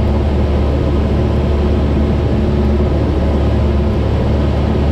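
Cessna 172's piston engine and propeller running steadily in cruise flight: an even, low drone with a strong hum.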